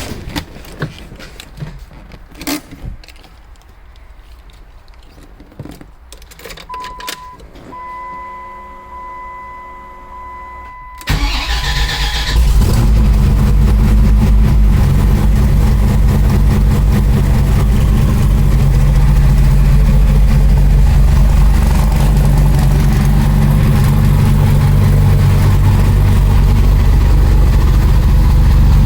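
Clicks and knocks, then a steady high tone for a few seconds, before a twin-turbo Dodge Viper's V10 cranks and fires about eleven seconds in. It is a cold start on E85 fuel, and the engine settles quickly into a loud, steady cold idle.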